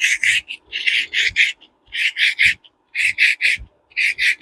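Rolled-up emery cloth rubbed quickly back and forth inside the bore of a Ted Williams 540 reel's spool, scouring out corrosion that makes the spool bind on its shaft. Quick rasping strokes, about five a second, come in short runs with brief pauses.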